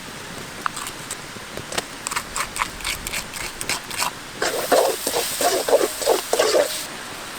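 A person eating noisily: a scatter of small crunches and clicks, then a run of loud, quick chewing and slurping sounds that stops near the end.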